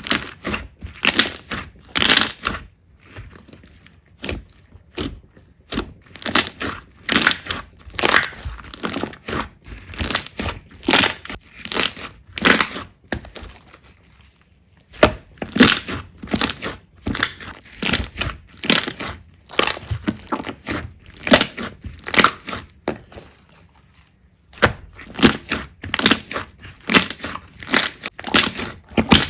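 Slime being pressed and squeezed by hand, giving a quick run of short sharp pops and crackles, several a second, with two brief lulls.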